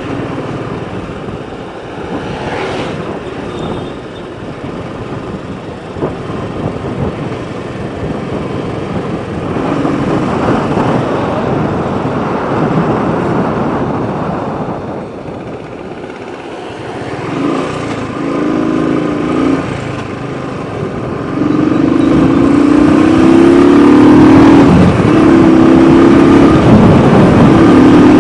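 Motorcycle ride noise, wind and road rush on a helmet-mounted microphone over the engine, in traffic. Several long, steady horn blasts sound over it, the longest and loudest near the end.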